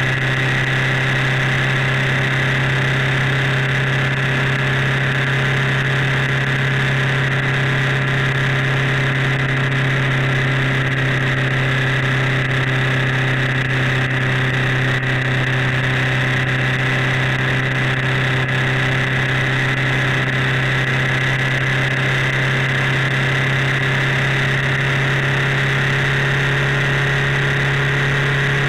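Motorcycle engine running steadily at motorway cruising speed, its pitch unchanging, heard from a camera mounted on the bike.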